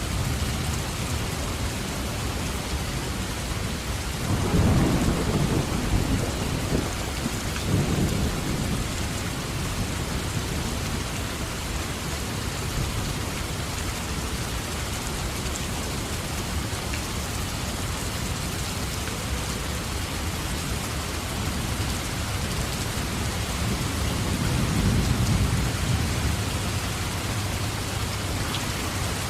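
Steady heavy rain with rolling thunder: a rumble swells about four seconds in and rolls on for several seconds, and a softer one follows near the end.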